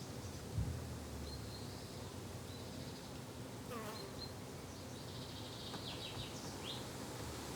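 Insects buzzing steadily in a garden ambience, with a few short high chirps from small birds scattered through, and a single low thump about half a second in.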